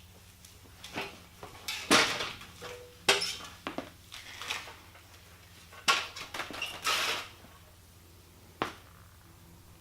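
A series of sharp knocks and clatters, five or six in all and spaced irregularly, over a faint low steady hum.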